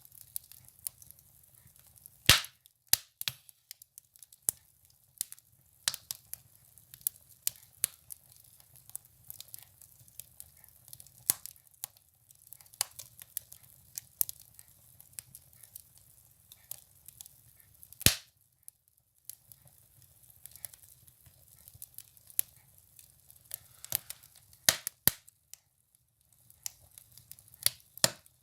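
Firewood burning in a stove, crackling with irregular sharp pops and snaps. Two loud pops stand out, about two seconds in and about eighteen seconds in, over a faint low rumble.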